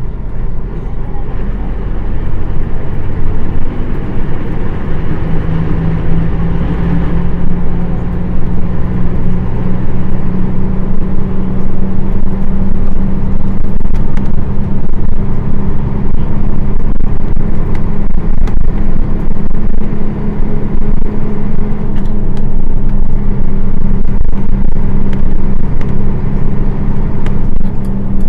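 Nissan Diesel PF6 diesel engine of a city bus heard from inside the cabin, running under load and rising in pitch over the first several seconds, then holding a steady pitch while the bus cruises.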